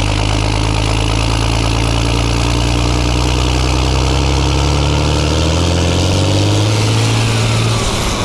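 A large farm engine running steadily, then revving up smoothly from about four seconds in, with the pitch dropping away near the end.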